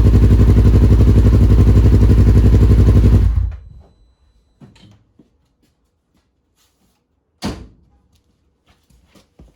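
2015 Polaris RZR XP 1000's parallel-twin engine, with a new cylinder head and a Tusk exhaust, idling steadily on its first start, then switched off a little over three seconds in and running down within half a second. A single thump about seven and a half seconds in, with a few faint clicks around it.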